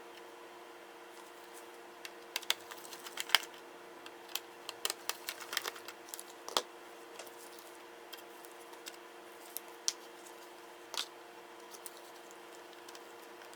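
Small sharp plastic and metal clicks and taps from a laptop being taken apart by hand, in an irregular cluster for a few seconds, then a few single clicks, over a steady electrical hum.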